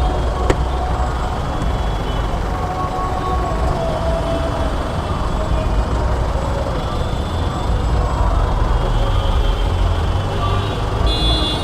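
Busy city road traffic: vehicle engines running with a steady low rumble, and a single sharp click about half a second in.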